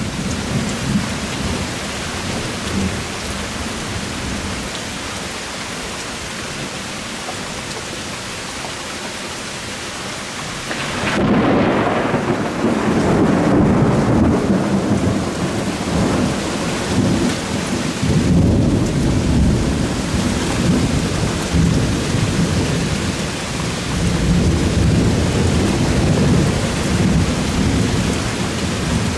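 Heavy rain from a thunderstorm downpour, hissing steadily. Rolling thunder joins it about eleven seconds in and rumbles on in waves to the end.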